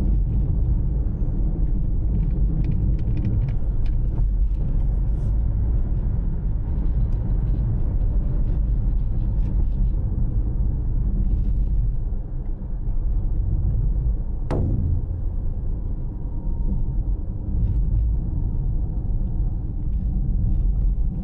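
Steady low rumble of a car on the move, with one short sharp sound about fourteen seconds in.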